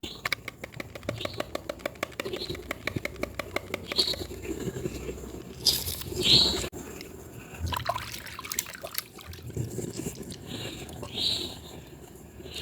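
Hands lathering and squeezing a soaked bar of soap: wet squelching with rapid crackling clicks, and a louder wet squish a little after halfway.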